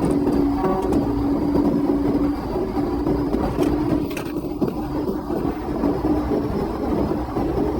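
Police car driving at high speed: steady engine drone with heavy road and wind noise.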